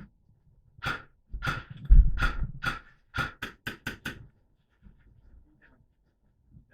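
Airsoft rifle firing about eleven sharp single shots, the last six in quick succession at about five a second, with a low rumble of handling or movement under the first few.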